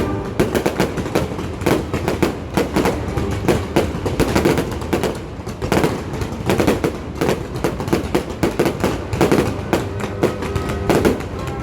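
Fireworks display: a dense, continuous run of bangs and crackles, several bursts a second.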